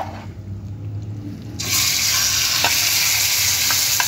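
Marinated chicken pieces going into hot oil in a frying pan: a sudden loud sizzle starts about one and a half seconds in and carries on steadily. A few clicks of a spoon scraping the chicken out of the dish sound over it.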